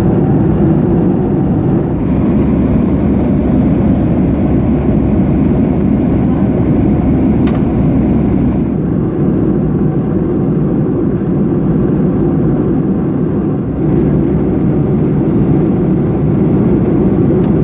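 Steady jet airliner cabin roar inside a Boeing 737-800 in flight: engine and airflow noise, deep and even, with a couple of faint clicks midway.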